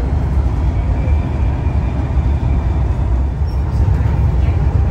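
Steady low rumble of a Thalys high-speed train running along the line, heard inside the carriage.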